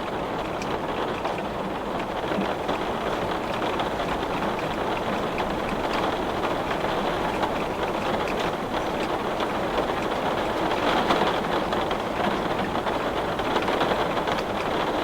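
Heavy rain pelting a glass pane: a steady, dense patter of drops on the glass, swelling slightly a little past the middle.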